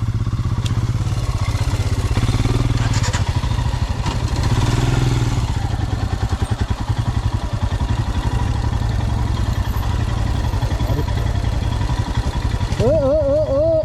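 Motorcycle engine running steadily at low revs, its exhaust beat a fast, even pulse. A voice comes in near the end.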